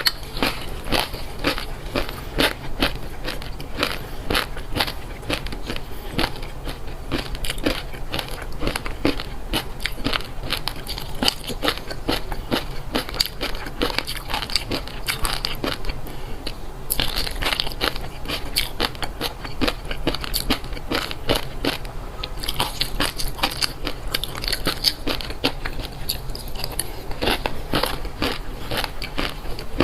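Close-miked crunchy chewing and biting: a person eating crisp food, with rapid crunches throughout.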